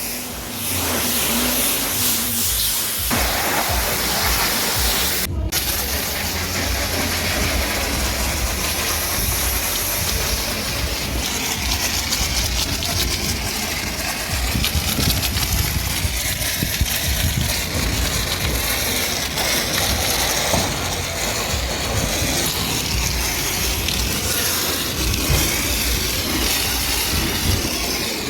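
Pressure washer spraying water onto a car: a steady hiss from the jet over a low rumble, briefly cut off about five seconds in.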